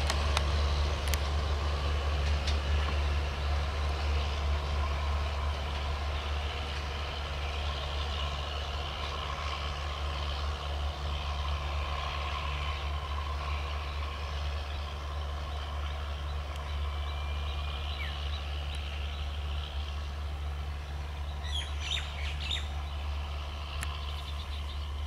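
A departing passenger train fading slowly as it moves away: the steady low drone of the diesel locomotive at its head and the coaches running on the track. A few bird chirps come near the end.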